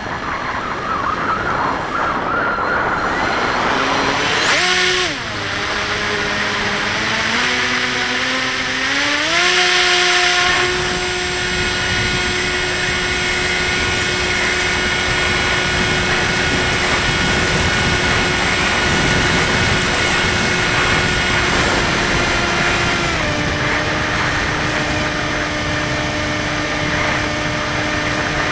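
Skywalker 1680 RC plane's electric motor and propeller whining, the pitch stepping up as the throttle is opened about five seconds in, then holding steady before easing down a little and rising again near the end. Wind rushes over the microphone throughout.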